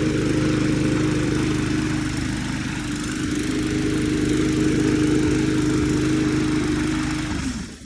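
Lawn mower's small gasoline engine running steadily after a carburetor clean and fresh gas, working properly again. Near the end it is shut off and winds down.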